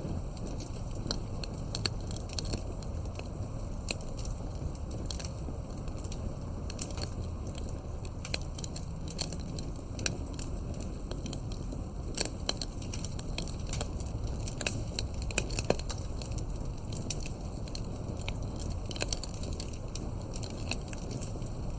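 Campfire crackling: a steady low rumble of burning wood with frequent irregular sharp pops and snaps, a few louder ones around the middle.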